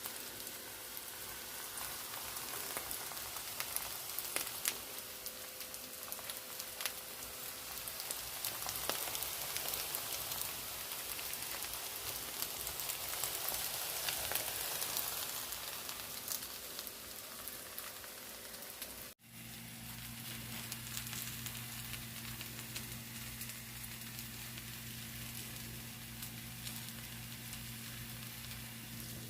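Korean chive pancake (buchujeon) frying in oil in a pan, a dense sizzle and crackle of oil with scattered pops. About two-thirds of the way in the sound breaks off for an instant. It then carries on quieter, over a steady low hum.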